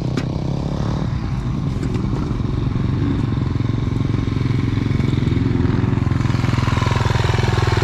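Dirt bike engine running steadily with an even beat, slowly growing louder, with a single click near the start.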